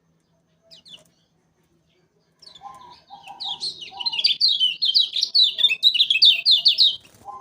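Kecial kuning, a Lombok white-eye, singing. It gives a faint note, then from about two and a half seconds a fast, loud run of quick repeated high notes, about four a second, that carries on almost to the end.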